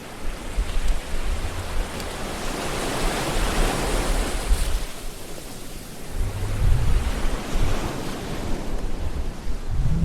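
Ocean waves surging and washing in, a broad rush of surf that swells to a peak midway and then eases off, with low rumbling underneath.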